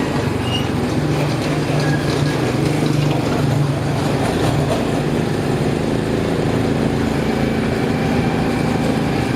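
Small single-cylinder motorcycle engine running steadily under way, with street noise around it.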